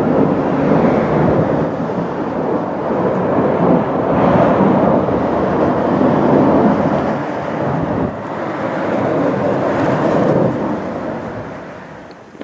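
Military jet aircraft passing, a loud, steady engine roar that fades away over the last couple of seconds.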